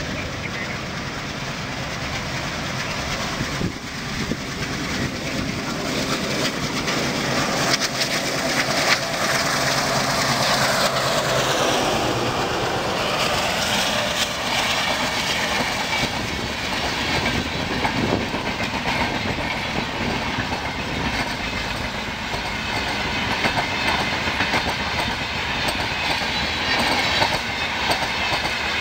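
An Alco WDM-3A diesel locomotive hauling an express passes at speed. Its engine gets louder as it approaches, and its pitch drops as it goes by about twelve seconds in. After that comes the steady rumble and clickety-clack of LHB passenger coaches rolling over the rails.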